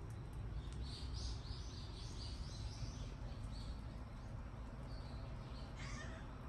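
A bird calling a run of about nine short, repeated high chirps, roughly three a second, over a steady low background rumble, with one brief sweeping call near the end.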